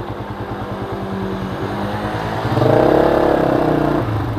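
Manual-transmission motorcycle engine running at low revs with a steady beat, rising in a short rev about two-thirds of the way through before settling back.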